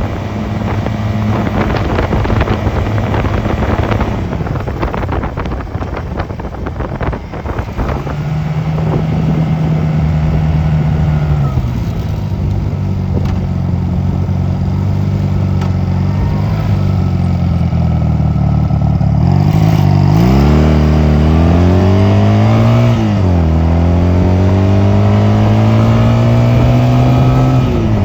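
Honda 250 cc motorcycle engine under way, with wind buffeting the microphone for the first several seconds. The engine note then holds steady and eases off. Later it rises and drops sharply, as at a gear change, and climbs again as the bike accelerates.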